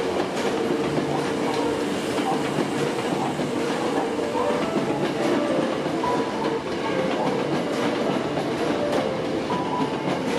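Hankyu 7000-series electric train rolling past, its wheels clattering over the rail joints with a steady running noise.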